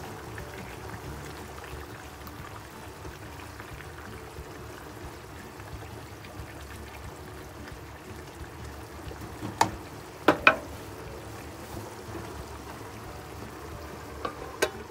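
Chicken afritada simmering and bubbling in a tomato sauce in a frying pan, with a steady watery hiss. A spatula stirs it, knocking sharply against the pan three times around ten seconds in. Near the end, a metal lid clinks twice as it is set onto the pan.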